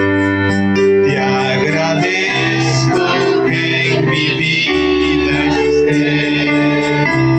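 Worship music on an electric keyboard, sustained chords changing about every second.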